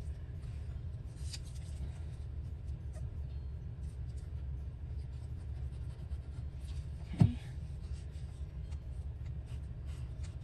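Paper and fabric being handled on a work surface: soft rustling and small scattered clicks over a steady low hum, with one sharp knock about seven seconds in.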